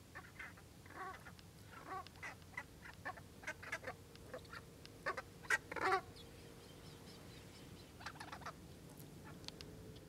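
Birds calling: a run of short, clucking calls in quick succession, loudest about five to six seconds in, with a few more near the end.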